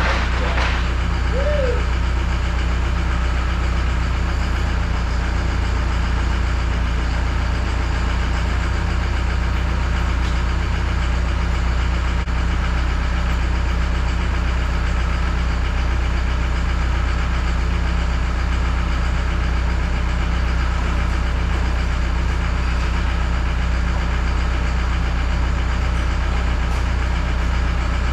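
Land Cruiser boom truck's engine idling steadily, a low, unchanging drone, with a short high squeak about a second in.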